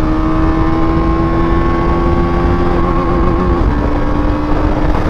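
KTM Duke 250's single-cylinder engine running hard at high road speed, its pitch slowly climbing under throttle, with wind rushing over the microphone. The note wavers briefly about three and a half seconds in.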